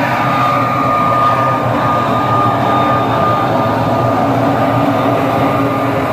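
Heavy grain truck running: a steady loud drone with a constant high-pitched whine over it.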